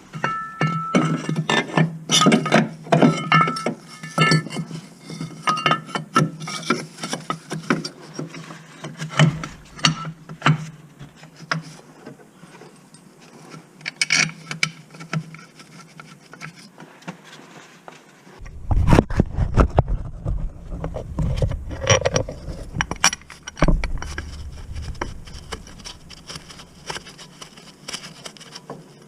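Metal tools and parts clinking, knocking and scraping in irregular bursts, with some brief ringing; from past halfway a lower rumbling noise joins the knocks.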